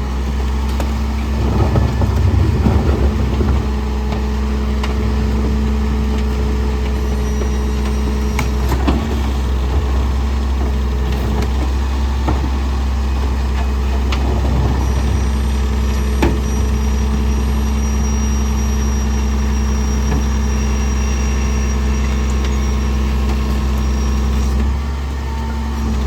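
Garbage truck engine idling steadily, with a louder stretch of activity a couple of seconds in and a few scattered clunks and knocks.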